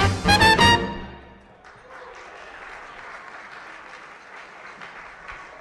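A swing band with horns ends a number on a final held chord that fades out about a second in, followed by steady audience applause.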